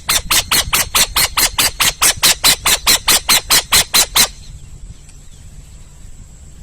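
An owl giving a rapid run of about twenty harsh, raspy notes, about five a second, that stops about four seconds in.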